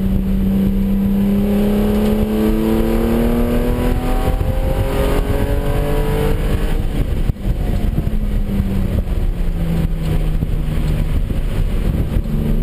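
Porsche 996's flat-six engine heard from inside the cabin, rising steadily in pitch under hard acceleration. About seven seconds in it drops off sharply as the throttle closes for braking, and it then runs lower and steadier as the car slows.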